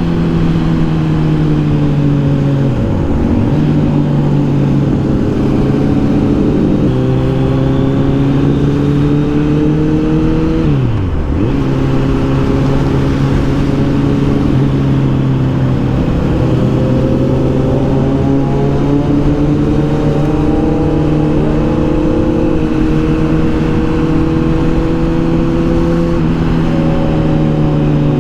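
Kawasaki Z900's inline-four engine running at steady cruising revs, its pitch sagging and rising gently, with two sharp brief dips in revs that recover at once, about three seconds in and again near the middle.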